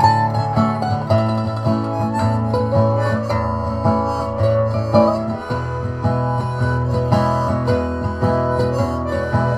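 Instrumental break of a bluegrass gospel song: acoustic guitar and other plucked strings, with banjo, playing the melody over a steady bass.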